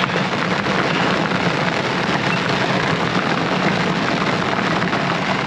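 Heavy rain drumming steadily on a Jeep's roof, heard from inside the closed cab as a dense patter of drops, with a steady low hum underneath.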